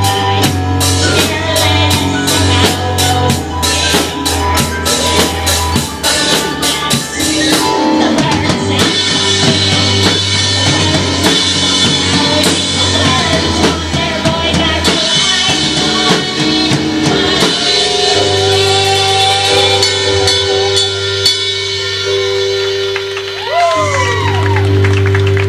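A rock band playing: fast, steady drumming over bass and guitar for about the first seven seconds, then the drums thin out under long held guitar and bass notes, with a few sliding pitches near the end.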